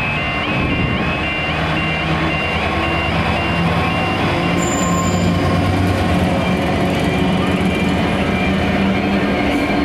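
Railway level crossing alarm sounding a repeating stepped two-tone warning, which fades within the first few seconds, over a locomotive's engine running steadily as a train goes by.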